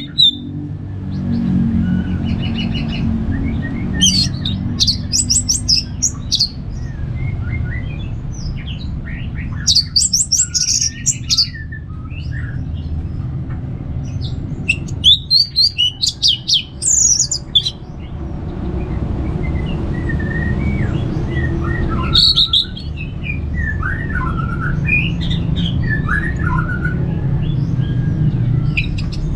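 Orange-headed thrush singing in loud bouts of rapid, varied phrases a few seconds apart, with quieter twittering between them, over a steady low hum.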